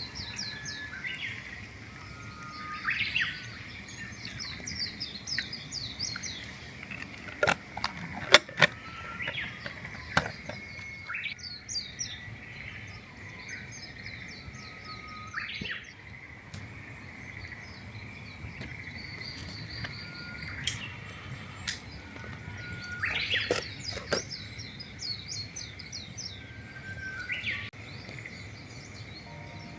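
Small birds singing, with repeated rapid trilled chirping phrases, over a steady high background hum. A few sharp snaps or clicks, about seven to eight and a half seconds in, are the loudest sounds.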